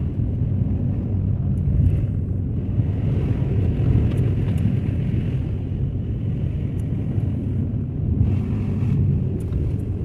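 Car driving on an unplowed snowy road, a steady low rumble of engine and road noise heard from inside the cabin.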